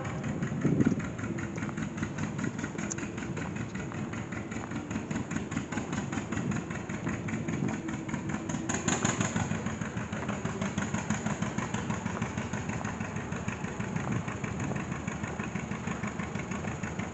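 Old tractor's engine running with a steady, rhythmic exhaust beat, swelling briefly about nine seconds in.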